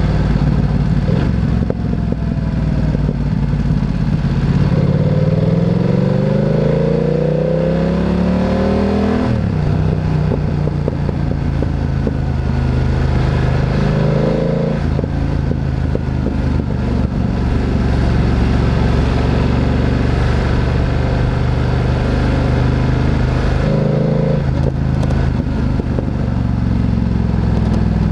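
Motorcycle engine accelerating, its pitch rising for about five seconds before dropping suddenly at a gear change, then running steadily, with two short blips of the throttle, one near the middle and one near the end.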